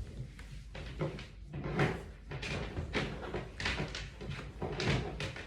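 A run of irregular knocks and clatters, about two a second, like hard objects being handled or bumped.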